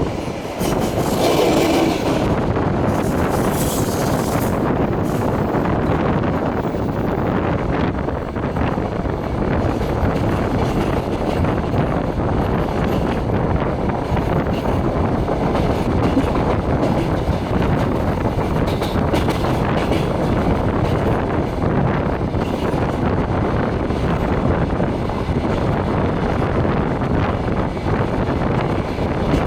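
Steady rush of wind and running noise of a moving passenger train, heard at the carriage window, with a short high hiss about one to four seconds in.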